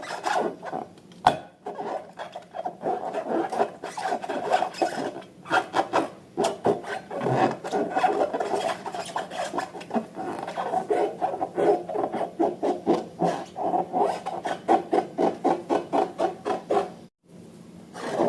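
Hands working slime: a rapid, continuous run of sticky squelches, crackles and rubbing, broken by a brief pause about 17 seconds in.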